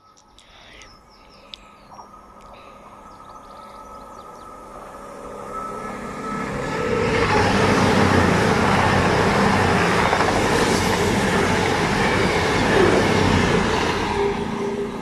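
Passenger train passing through a station at speed. Its rushing wheel-on-rail noise builds over about seven seconds as it approaches, stays loud for several seconds as the coaches go by, then begins to fade near the end.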